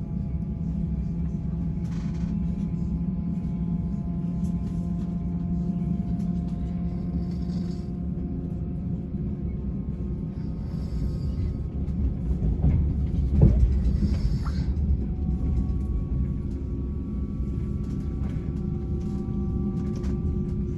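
Passenger train running, heard from inside the carriage: a steady low rumble with a faint whine over it. Partway through it grows louder, with a few sharp knocks.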